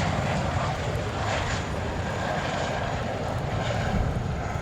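JASDF CH-47J Chinook tandem-rotor helicopter flying its display: a steady noise of rotors and twin turbine engines with a low, rapid flutter underneath.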